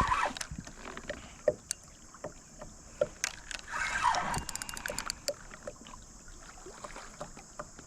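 Fishing rod and reel being worked while reeling in a heavy hooked snapping turtle: scattered knocks and clicks of handling, with a quick run of clicks about four and a half seconds in.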